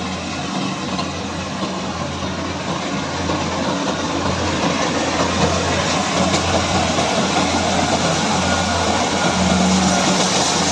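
Kubota combine harvester running steadily while harvesting rice, a low engine hum under dense machinery noise, growing gradually louder.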